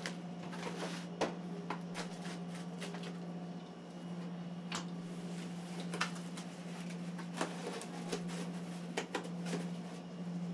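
A steady low machine hum with scattered clicks, knocks and clatter.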